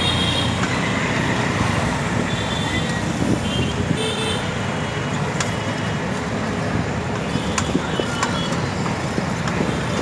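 Busy road traffic heard from the roadside, with several short vehicle horn toots through it.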